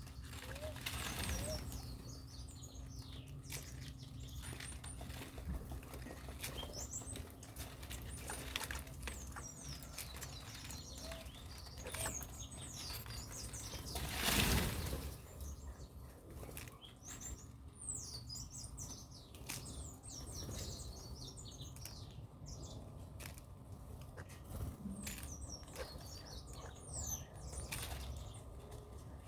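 Small birds chirping, many short high falling notes scattered throughout, with a louder flutter of wings about halfway through.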